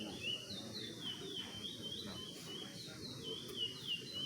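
Caged songbirds singing: a steady stream of short whistled notes that slide downward, several a second, with notes from more than one bird overlapping.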